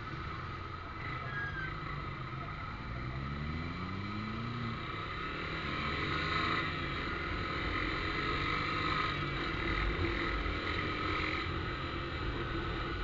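Motorcycle engine running through a newly fitted aftermarket exhaust, its revs climbing in pitch about three seconds in, then running on steadily.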